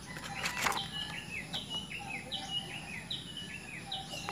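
A bird calling over and over, just over once a second: each call is a high note that steps down into short falling chirps. A brief rustle of handling noise comes about half a second in.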